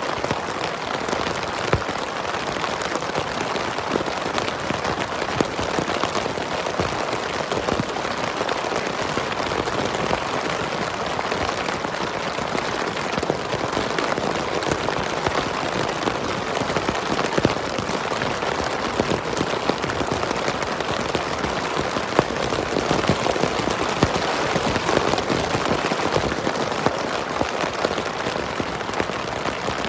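Steady rain falling on a tent, with many separate drops ticking sharply on the fabric.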